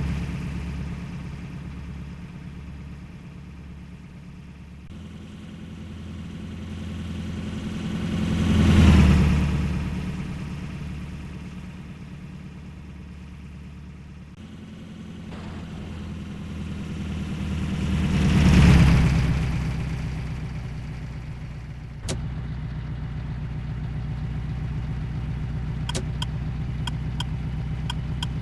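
Heavy trucks driving past one at a time, each engine swelling to a peak and fading as it goes by, twice. In the last few seconds a steady engine sound runs on, with a few faint ticks near the end.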